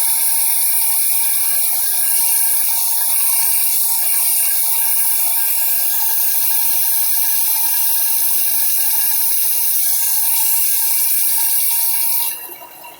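Bench belt sander running with a wooden board held against the belt: a loud, steady hiss of sanding over the steady whine of the motor and belt. About twelve seconds in the sanding hiss drops off sharply, leaving the sander running quieter.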